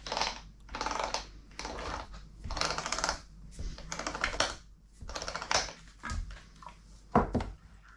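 Kitchen food-preparation sound: a series of scraping strokes about one a second, each a quick rattle of fine clicks, with a sharper knock about seven seconds in.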